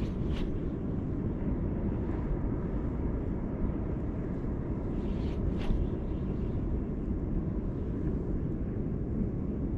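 Steady low outdoor rumble, the kind wind and open water make on a microphone, with two faint brief hissy ticks, one right at the start and one about five and a half seconds in.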